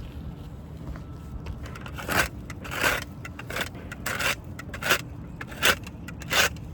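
Soft-bristle brush swept in repeated strokes across asphalt composition shingles, about seven scrapes starting a couple of seconds in, roughly one every 0.7 s. Loose granules are being knocked off the creased, damaged shingles.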